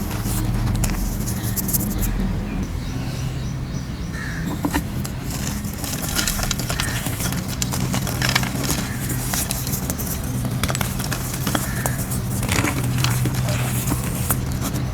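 Grey gym chalk shapes being crushed and crumbled, giving irregular crunching and crackling with many small sharp snaps, over a steady low hum.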